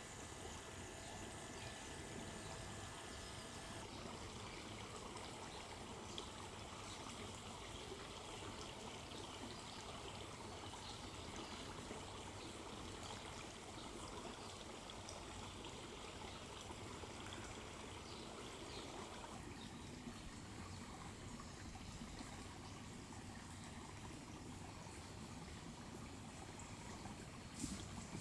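Small stream running steadily, a low, even rush of water. A short sharp knock near the end.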